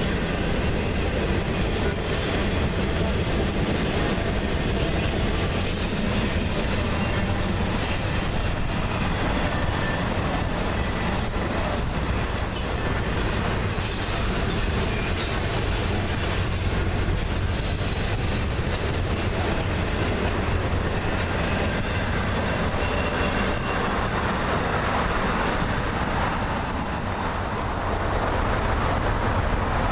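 Freight train cars rolling past on the rails: a steady rumble of wheels on track, with faint high-pitched wheel squeal at times.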